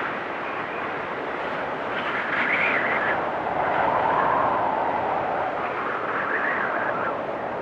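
Storm wind blowing hard in gusts, with a whistling tone that swells and fades about three times.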